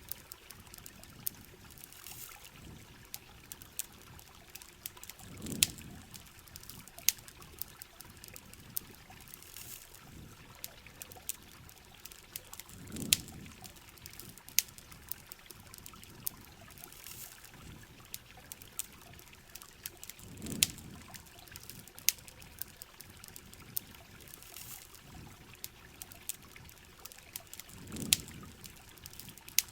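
Rain and trickling water with a campfire's frequent sharp crackles and pops over it. A low swelling whoosh comes back about every seven and a half seconds, four times.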